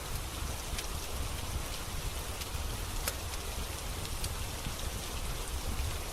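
Steady rain with a low rumble beneath it, and a few sharp crackling pops from a wood fire in a fireplace. The loudest pop comes about three seconds in.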